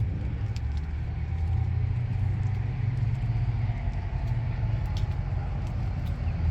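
A car engine running steadily at idle, a deep low rumble.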